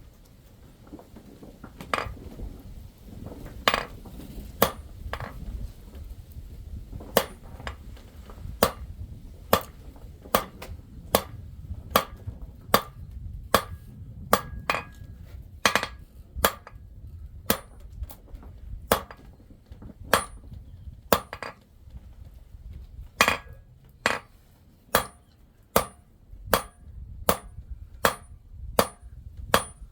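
Hammer blows on silver at the anvil, each a sharp metallic strike with a short ring. A few spaced blows at first, then a steady rhythm of about three blows every two seconds.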